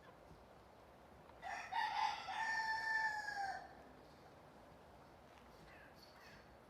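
A rooster crows once, a single call of about two seconds whose last held note falls away at the end.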